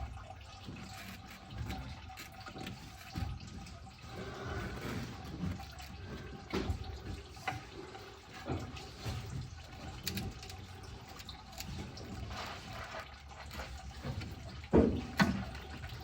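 Scattered clicks and knocks of hand tools and parts being worked on an engine under a faint steady background hum, with one louder knock about 15 seconds in.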